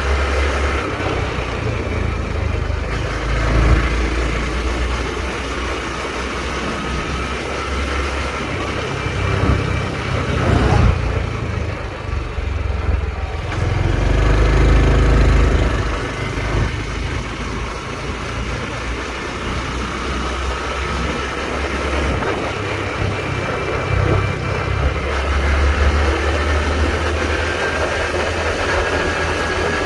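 Honda Trail 125's single-cylinder engine running while the motorcycle is ridden, with heavy, uneven wind rumble on the microphone.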